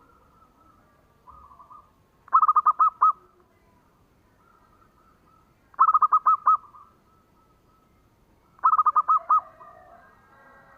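Zebra dove (perkutut) singing: three phrases, each a quick run of about six cooing notes, roughly three seconds apart, with fainter calls between them.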